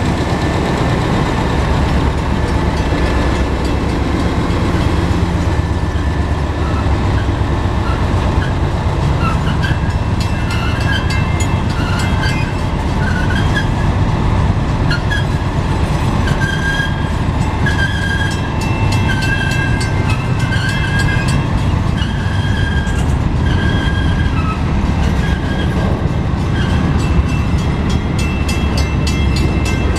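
Canadian National freight train rolling past close by, with a steady heavy low rumble. The locomotive's diesel engine passes first, then boxcars follow. From about ten seconds in, the wheels squeal in short high tones on and off, and in the second half there is clicking from the wheels over the rails.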